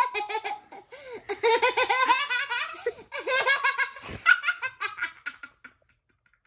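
Hearty laughter in quick repeated ha-ha pulses, with a single thump about four seconds in; the laughing dies away near the end.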